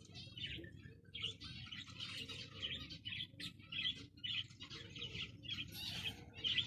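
Zebra finches calling, many short nasal chirps overlapping in quick succession, as from several birds at once.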